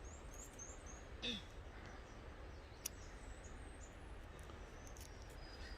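Faint woodland ambience: a steady low hiss and rumble with a few thin, high bird chirps near the start and again around the middle, and a single click about three seconds in.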